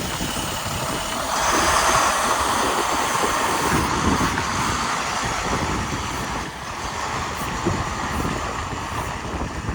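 International 4000 Series truck's diesel engine running steadily, with wind noise on the microphone and a louder stretch about a second in.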